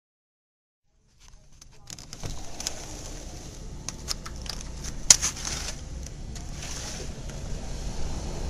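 Snowstorm wind rumbling on the microphone with scattered crackles and sharp clicks, starting about a second in after a cut from silence; the loudest click comes about five seconds in.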